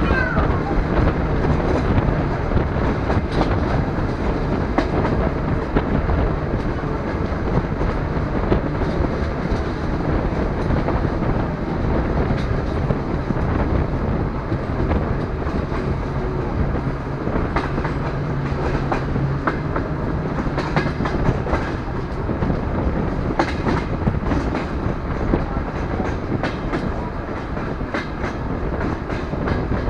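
DR1A diesel multiple unit running at speed, heard through an open carriage window: wheels clicking over rail joints over a steady rumble, with a low steady hum underneath.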